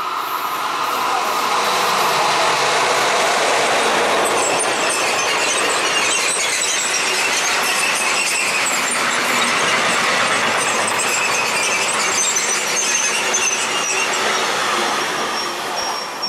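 Freight train of covered sliding-wall wagons passing close by: a steady rush of wheel and rail noise with a high squeal from the wheels through the middle of the pass. The noise builds over the first two seconds and eases off near the end as the last wagons go by.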